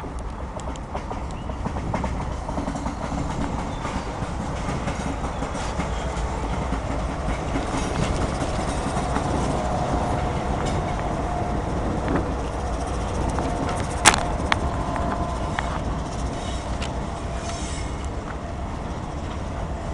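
CSX mixed freight train rolling past, a steady rumble with wheels clicking over rail joints and a faint held whine in the middle. About fourteen seconds in there is one sharp metallic clank.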